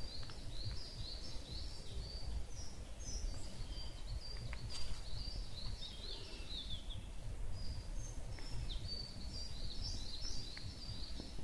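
Songbirds singing in repeated phrases of quick, high, down-slurred notes, in three spells: at the start, midway and near the end. A steady low rumble runs underneath.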